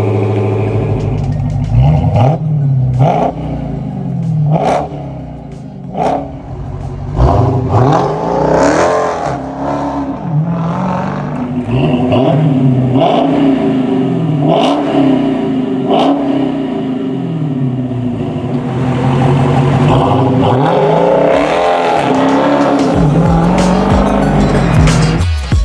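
Supercharged 6.2-litre HEMI V8 of a 2023 Dodge Challenger SRT Hellcat Redeye, breathing through Aero Turbine 3-inch stainless steel mufflers, idling steadily and then being revved: first in short blips about a second apart, then in longer runs up and down.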